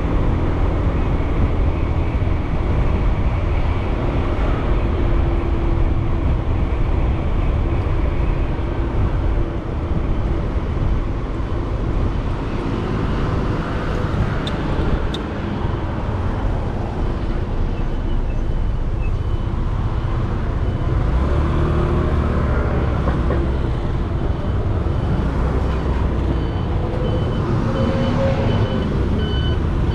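Motorcycle ride heard through a helmet-mounted GoPro with a foam wind-noise sponge: steady low wind rumble mixed with engine and road traffic noise. About two-thirds of the way in, a truck's reversing alarm starts beeping at an even pace.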